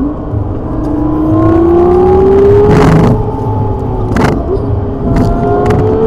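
Car engine heard from inside the cabin, pulling under acceleration, its note rising steadily for about three seconds and then holding level, with a few short clicks along the way.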